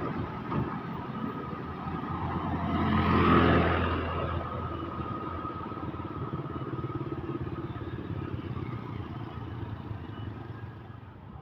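A motor vehicle passing close on the road. Its engine and tyre noise swell to a peak about three seconds in, then fade steadily away.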